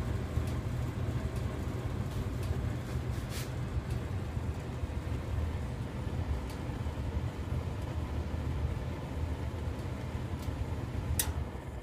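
Faulty gas furnace running with a steady low rumble, with a few sharp clicks. A louder click comes about eleven seconds in, and the sound then gets quieter.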